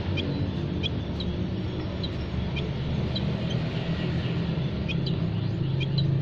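Small songbirds giving short, high chirps, several a second and scattered, over a steady low hum that is the loudest sound, like a running motor or vehicle.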